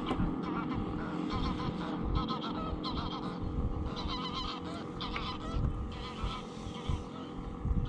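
Geese honking again and again, with the steady rush of wind on the microphone underneath.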